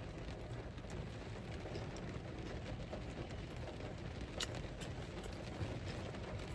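Low, steady background noise with two faint clicks partway through.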